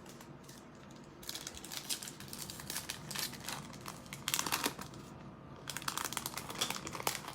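Plastic trading-card pack wrapper crinkling as it is handled and torn open by hand, in two stretches about a second and a half in and again near the end, with a short pause between.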